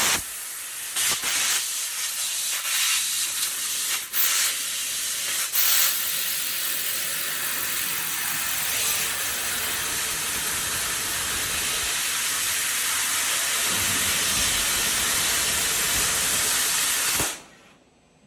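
Laser cutting machine's assist-gas jet hissing steadily from the cutting head as it cuts a saw blade, with a few brief breaks in the first few seconds. The hiss cuts off suddenly about a second before the end.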